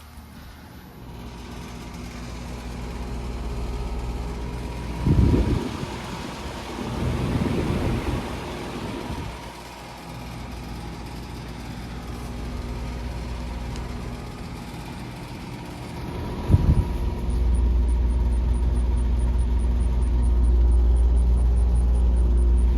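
2011 Carrier Performance Series heat pump outdoor unit running in cooling mode: a steady low compressor hum with fan noise. It is broken by a few brief bursts of noise and grows louder about two-thirds of the way through.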